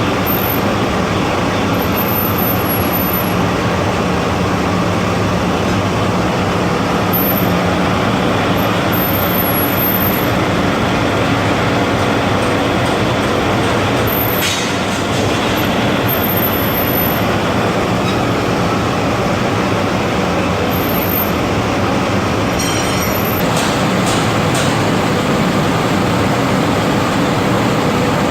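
Rice-husk furnace and paddy dryer plant running: a loud, steady roar of industrial fans and machinery with a low hum underneath, and a few short clicks partway through.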